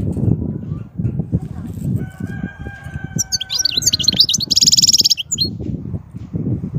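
A European goldfinch sings one short, high twittering phrase ending in a fast trill, about halfway through. A low rumble with irregular knocks, typical of wind or handling noise on an outdoor microphone, runs underneath and is the loudest sound; a faint steady tone sounds briefly before the song.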